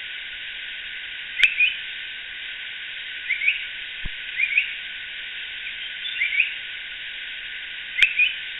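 Yellow-browed bulbul calling: short, quick phrases of two or three rising notes, repeated every one to two seconds over a steady hiss. The recording sounds thin and band-limited, with two faint clicks.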